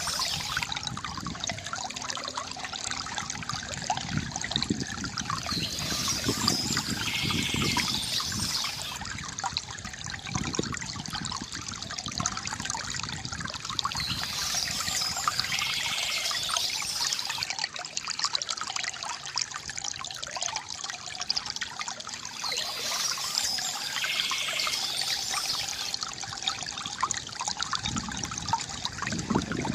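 Water trickling and gurgling steadily from a bamboo fountain, with a short spell of bird chirping about every eight seconds.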